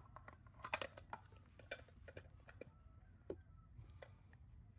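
Faint, scattered light clicks and taps of small plastic toy pieces being picked up and put into a toy trash can.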